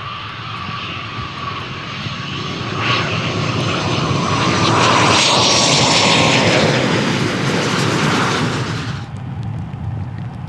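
Eurofighter Typhoon's twin EJ200 turbofans passing on landing, with a jet whine and roar that build to a peak in the middle, then the high-pitched part cuts off abruptly about nine seconds in.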